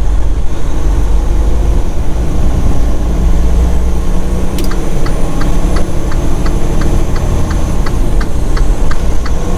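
Semi truck's diesel engine running, a steady low rumble heard from inside the cab. About halfway through a click sounds, then an even ticking starts, about two to three ticks a second.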